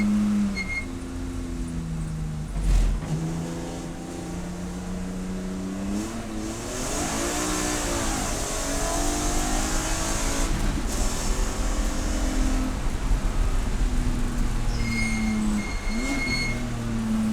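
Race car engine running hard, its pitch stepping down and up as it shifts gears and rising and falling in a swell near the middle. There is a short thump about three seconds in, and a brief high steady tone near the end.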